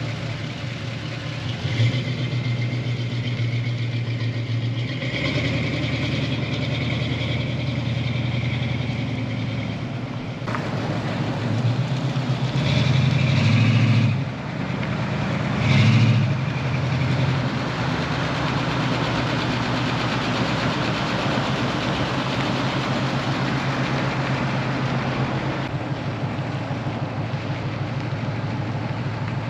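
1981 Chevrolet Camaro's engine running as the car is driven, a steady low note that swells a few times as it is given throttle, loudest about halfway through.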